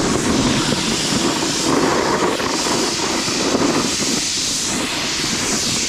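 Rushing wind on the microphone and a snowboard sliding and scraping over snow while riding downhill, a steady, fluctuating rush.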